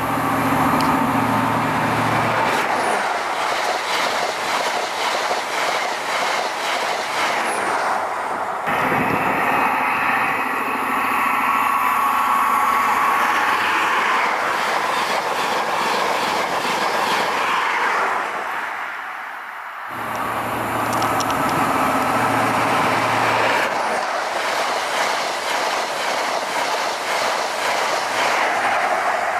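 High Speed Train with Class 43 diesel power cars passing at speed: rushing wheel and air noise with rapid, regular wheel clicking, and the low drone of the power car's diesel engine as it goes by. The sound changes abruptly twice, about 9 and 20 seconds in.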